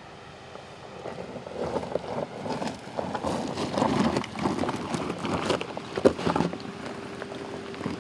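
Aston Martin DBX on an off-road drive: tyres crunching and clattering over loose, rough ground, with many small knocks and one sharp knock. This builds about a second in and fades after about six seconds, leaving a steady hum.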